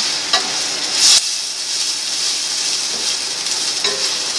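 Ginger and garlic strips sizzling as they fry in a stainless steel pot, stirred with a wooden spatula that scrapes across the pot, with one louder stroke about a second in.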